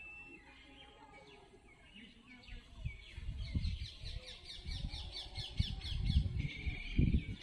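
Small birds calling outdoors: a fast run of repeated high chirps about halfway through, then a sustained trill near the end, over a low rumbling noise.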